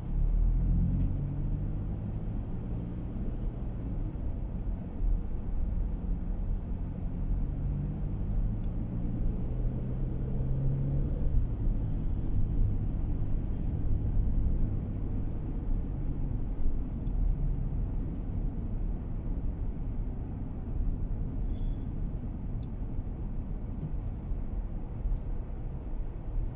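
Car engine and road rumble heard from inside the cabin. The engine pitch climbs as the car accelerates over the first dozen seconds, then settles into steady cruising.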